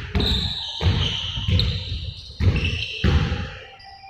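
A ball bouncing repeatedly on a hard floor, about one heavy thud every 0.7 s, with high squeaks between the bounces.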